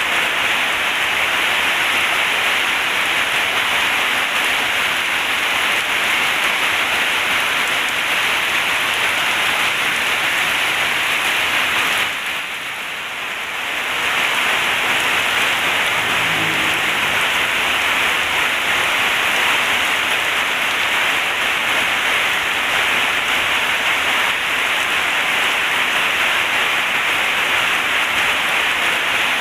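Heavy rain pouring steadily as a dense, even hiss. It briefly drops away for a couple of seconds a little before the middle, then comes back at full strength.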